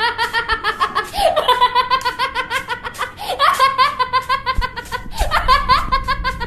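High-pitched laughter in repeated fits about every two seconds, each starting with a falling cry and running into a quick train of ha-ha pulses.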